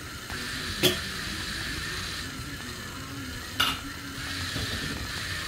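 Two sharp clicks or knocks, about three seconds apart, over a steady hiss.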